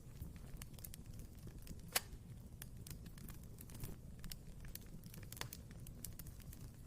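Wood fire in a fireplace crackling: irregular small snaps and pops over a low rumble of burning, with one sharper pop about two seconds in.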